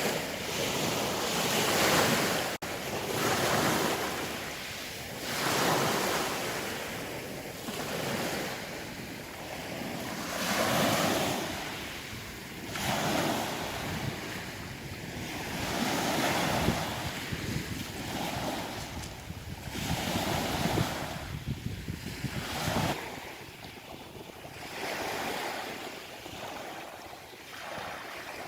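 Sea waves breaking and washing over a pebble beach, swelling and ebbing every two to three seconds.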